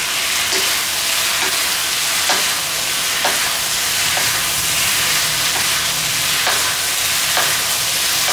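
Chicken pieces, bell peppers and onion sizzling in a hot wok while being stirred with a wooden spatula, with light knocks of the spatula against the pan about once a second.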